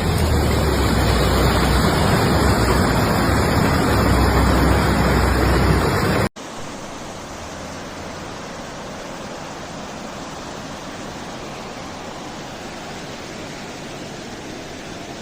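Loud, steady rush of heavy rain and floodwater with a low rumble of wind on the microphone; about six seconds in it cuts off suddenly to a quieter, even hiss of rushing water.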